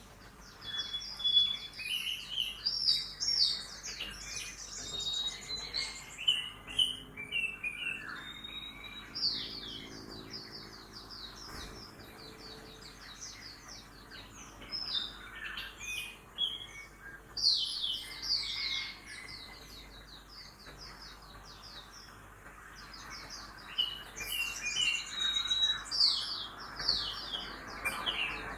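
Songbirds singing: bursts of rapid, repeated high chirps and trills with short pauses between phrases, over a faint hum of town traffic.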